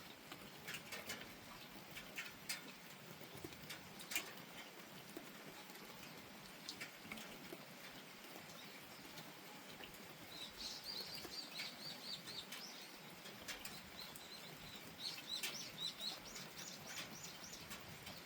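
Steady light rain with scattered drips ticking. A small bird calls twice over it: a quick run of short, high chirps about ten seconds in, and another run near the end.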